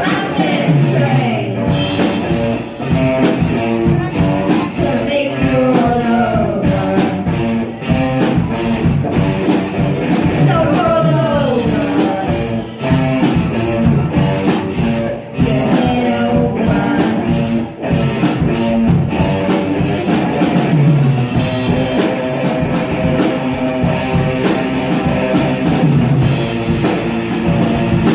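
Hard rock song playing: sung vocals over distorted electric guitars, bass and a driving drum beat.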